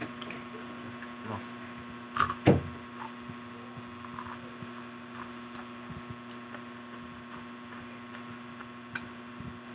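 Close-miked chewing of over-crisp food: scattered small crunches and clicks, the loudest a short crunch about two and a half seconds in. A steady electrical hum runs underneath.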